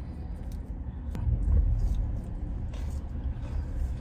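Steady low rumble of an idling car heard inside the cabin, swelling briefly about a second in. A few faint crunches from chewing salad with croutons come over it.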